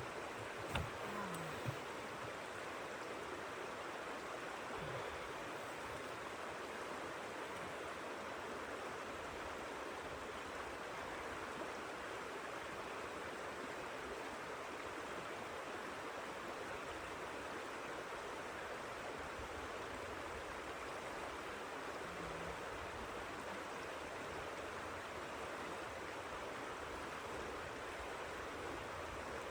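Steady, even rushing noise, with a couple of faint knocks about a second in.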